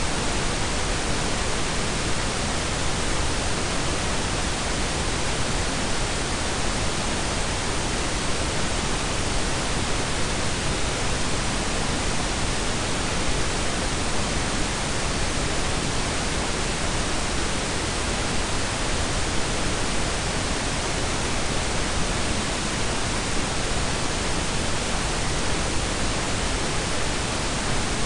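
Blended pink and brown noise: a steady, unchanging hiss with a deep low rumble, with no events or changes.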